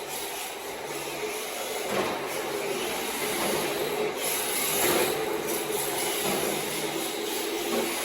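MST RMX 2.0 RC drift car sliding through laps: its drift tyres scrape and rub on the track surface under the electric motor's whine, swelling loudest about two and five seconds in.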